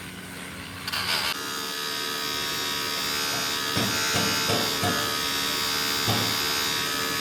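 A workshop machine's electric motor running with a steady buzzing hum. It dips in the first second and picks up again about a second in. A few short knocks come between about four and six seconds in.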